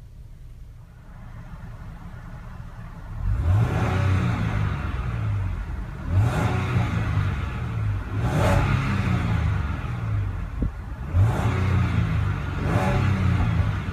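Land Rover LR4's 3.0-litre supercharged V6 running quietly, then revved about three seconds in and blipped again and again, about five rises and falls in pitch in all.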